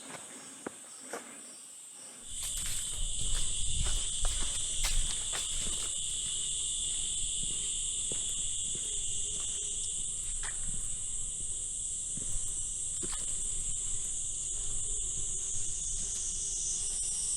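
A loud, steady chorus of jungle insects with two high, even tones, one shrill and one lower. It swells about two seconds in, joined by a low rumble and scattered light clicks.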